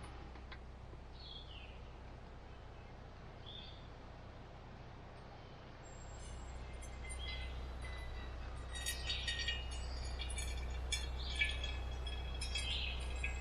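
Birds chirping over a low steady rumble that grows louder about six seconds in, followed by a busy run of quick chirps and clicks.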